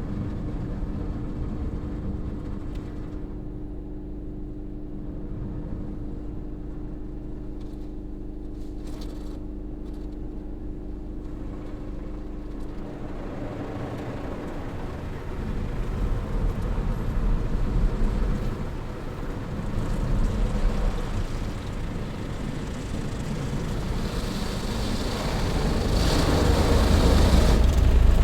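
Automatic car wash machinery running around a car: a steady hum at first, then a rushing noise that builds about halfway through and grows louder towards the end.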